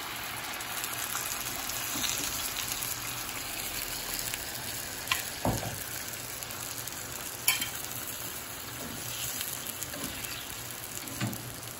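Onions, green onions, chiles and bell pepper sizzling steadily in a skillet with freshly added sauce, stirred with a slotted metal spatula that knocks sharply against the pan a few times.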